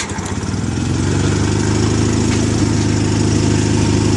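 1981 Sears FF20 garden tractor engine just started on a little choke and low throttle, running unevenly for about a second and then settling into a steady idle.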